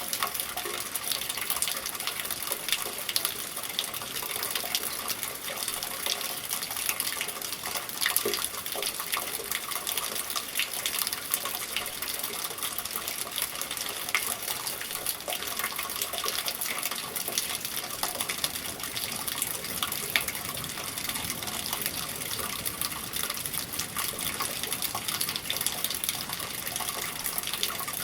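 Steady rain with water gushing through a gutter, dotted with many sharp drop ticks.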